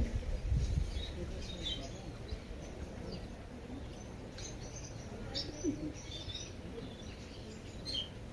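Birds chirping faintly in the background: short, scattered chirps over a quiet outdoor hush. A low rumble fades out in the first second.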